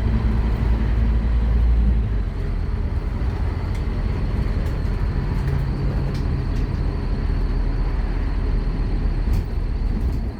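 Scania K230UB Omnilink bus's diesel engine running under way, a heavy low drone that is loudest in the first two seconds and then settles, with a few sharp clicks and rattles.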